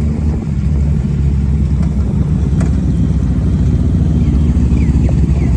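Kawasaki ZX-10R's inline-four engine, on its stock exhaust, running steadily at low revs.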